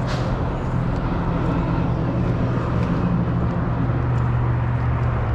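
1964 Ford Fairlane's 289 V8 with a big cam running steadily at low revs, heard from the car.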